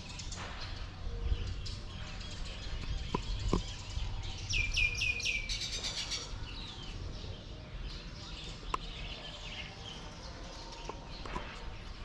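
Birds chirping, with a quick run of repeated short falling chirps about halfway through, over a low rumble.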